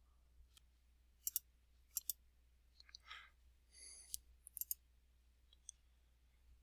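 Computer mouse buttons clicking: scattered single clicks and quick double clicks, with a short soft rustle about three seconds in.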